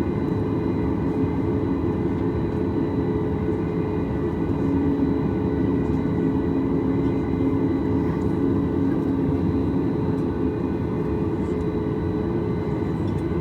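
Steady cabin drone of a Boeing 737 MAX 8 heard from a passenger seat: the CFM LEAP-1B engines' running noise and airflow, an even rush with a few steady hums and whines over it.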